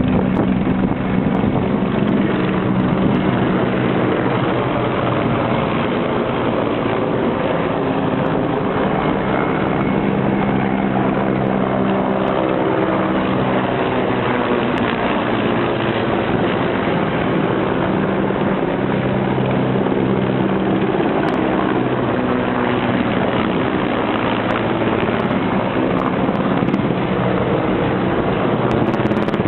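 Helicopter flying, its engine and rotor making a steady drone with several humming pitches that drift slightly.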